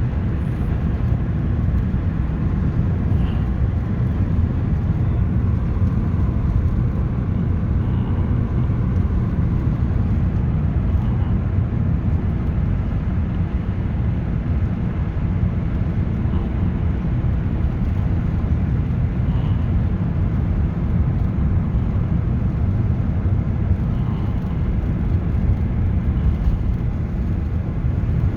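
Car driving at low speed: steady low rumble of engine and road noise.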